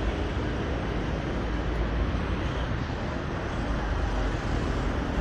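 Steady road traffic noise: a continuous low rumble of vehicle engines and tyres, with no single event standing out.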